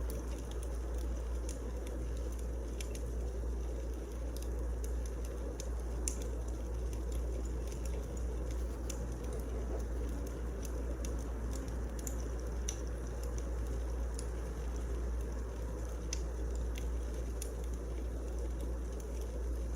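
Wood fire crackling in a fireplace: irregular sharp snaps and pops scattered over a steady low rumble of burning logs.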